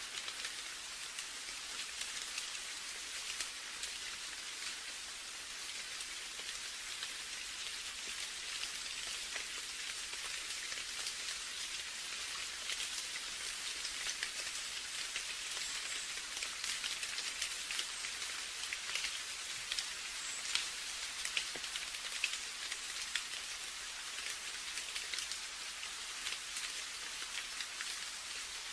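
Steady rain falling, an even hiss with many separate drops ticking through it.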